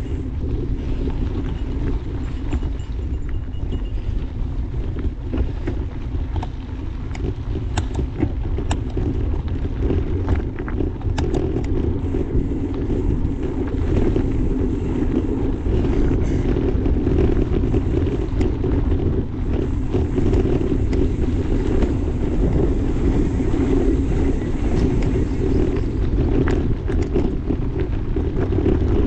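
Mountain bike rolling along a dirt trail: a steady rumble of tyres and frame, with wind on the microphone and scattered short clicks and rattles.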